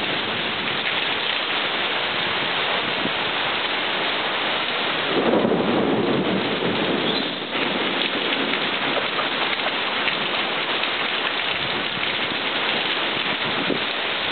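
Heavy rain from a severe thunderstorm, a steady hiss. Halfway through comes a louder, lower rush lasting about two seconds, which cuts off suddenly.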